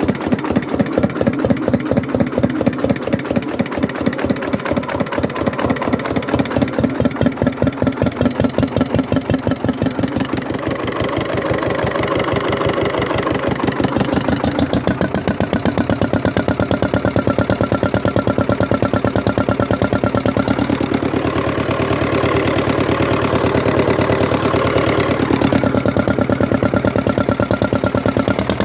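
Hatz diesel engine running with a distinct, even chugging beat, which quickens around the middle into a faster, steadier run.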